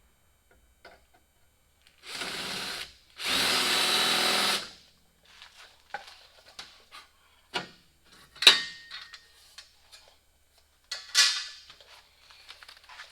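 Power drill boring a mounting hole for a headlight trim piece: two bursts, a short one and then a longer, louder one. Scattered clicks and knocks follow as the drill and part are handled.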